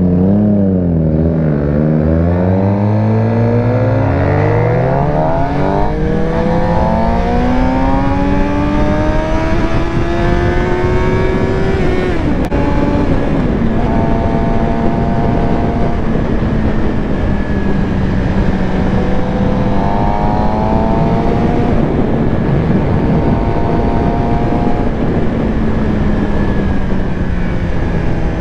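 2019 Suzuki GSX-R600's inline-four engine under way: the revs dip and pick up, then climb steadily for about ten seconds, drop sharply about twelve seconds in at a gear change, and hold a steady cruise for the rest, with wind rush throughout.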